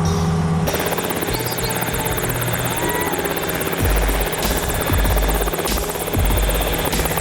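Cicaré SVH-4 training helicopter running on its tethered stand, its engine and rotor giving a fast, even chop, starting abruptly about a second in. Low gusts of rotor downwash buffet the microphone several times in the second half.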